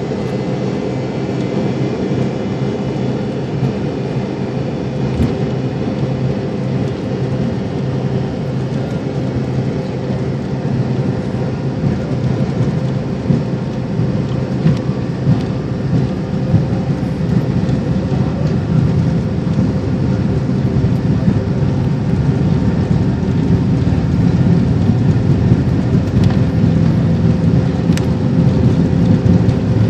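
Jet airliner's engines heard from inside the cabin during takeoff: a steady low rumble with a hum, slowly growing louder.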